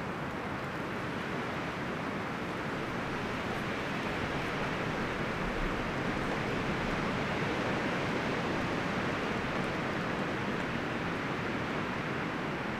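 Wind blowing through forest trees, a steady rush of rustling leaves and branches that swells gently and eases off again.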